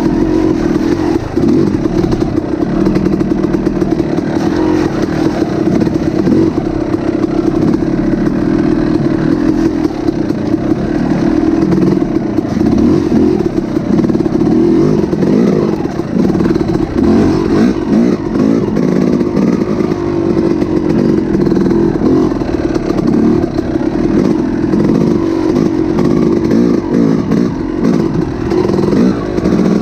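Heavy hail falling, a loud, dense, continuous clatter with no let-up.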